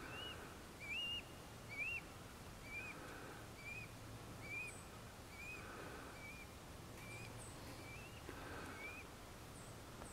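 A bird calling: one short, arched note repeated steadily a little over once a second, about a dozen times, each note slightly lower in pitch than the last.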